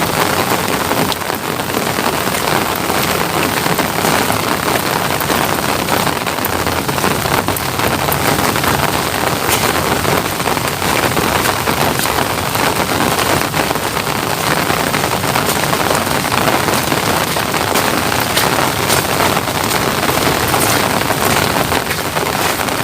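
Steady rain falling close to the microphone, a dense hiss with many sharp individual drop taps.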